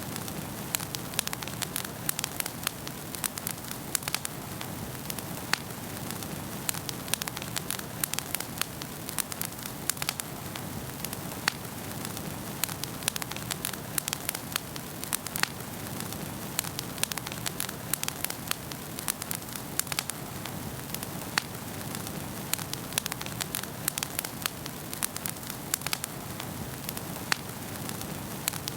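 Fire in a fireplace crackling: many irregular sharp snaps and pops over a steady low rush of the flames.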